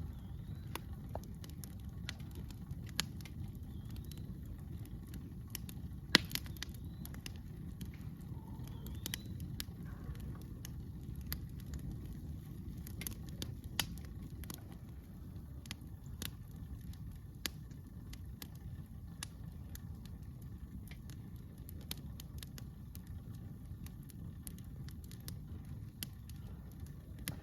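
Wood campfire crackling with irregular sharp pops, the loudest about six seconds in, over a low steady rumble.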